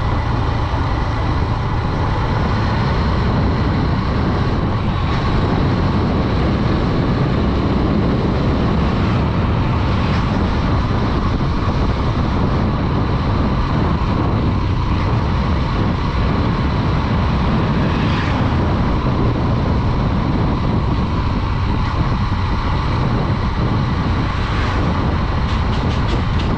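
Honda Dream 110's single-cylinder 110cc four-stroke engine running steadily while the motorcycle is ridden at an even speed, with heavy road and wind rush on the microphone.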